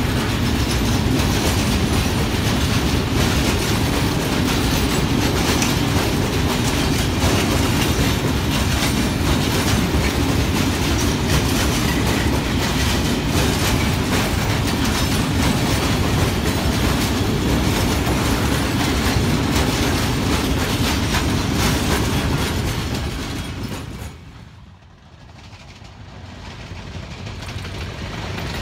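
Freight train wagons rolling past close by, with a dense rumble and the clatter of wheels over rail joints. The noise falls away suddenly about 24 seconds in as the train's end passes, then builds again near the end.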